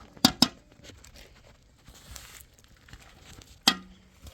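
Sharp knocks of hard objects striking: two in quick succession near the start, then one more near the end that leaves a brief low ring.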